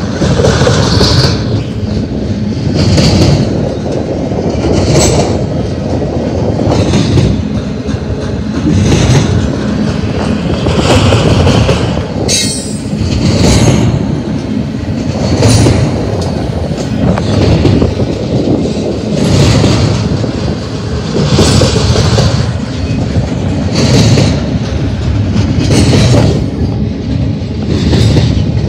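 Double-stack intermodal freight train's well cars rolling past close by: a heavy steady rumble of steel wheels on rail, with a clickety-clack that swells about every two seconds as each truck passes. There is a brief high-pitched wheel squeal about halfway through.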